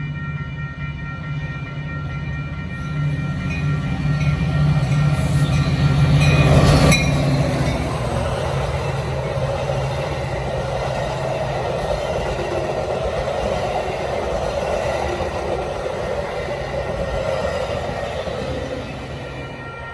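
Metra diesel commuter train passing: the locomotive's engine grows louder to a peak about seven seconds in, then the rolling of the passenger cars carries on and drops away near the end.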